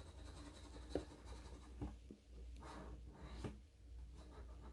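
Faint scraping of a scratch-off lottery ticket's coating being rubbed away, in short irregular strokes with a few sharper scrapes.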